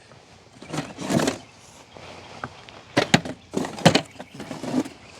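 Wooden beehive frames knocking and scraping against the hive box as a frame is swapped out: a soft scrape about a second in, then a quick run of sharp wooden knocks around three to four seconds in.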